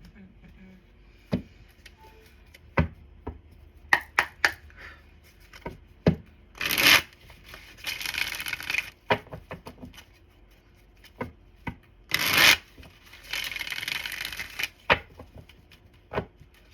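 Tarot cards being handled: scattered sharp taps and clicks as cards are set down, with two spells of card shuffling, about six seconds in and again about twelve seconds in.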